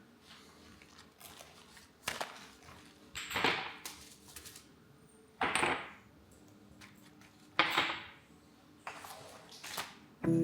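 Objects being handled by hand: about five short scraping or knocking sounds, spaced a second or two apart.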